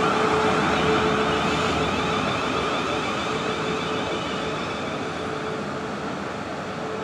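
Electric multiple-unit passenger train running on the line and moving away, its running noise fading steadily, with a steady humming tone over the wheel-and-rail rumble.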